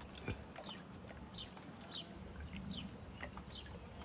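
Birds chirping in the background: short descending chirps repeated about two or three times a second, with one sharp click about a third of a second in.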